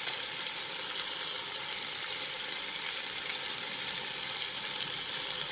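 Moong dal, green peas and tomatoes sizzling steadily in hot mustard oil in a pressure cooker over a high flame, left unstirred.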